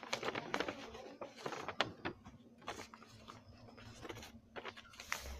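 A sheet of paper being handled and folded by hand, rustling and crinkling in short irregular crackles.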